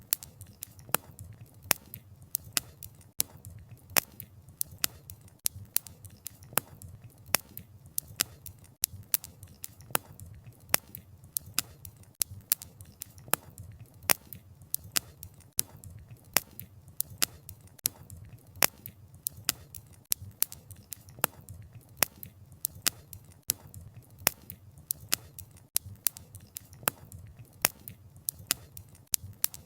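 Wood fire crackling: burning firewood snapping and popping in sharp irregular clicks, several a second, over a low steady rumble of the flames.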